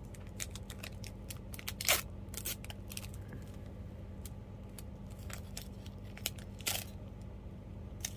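A small toy package being torn open and handled by hand: a run of short crackles, with two louder ones about two seconds in and near the end.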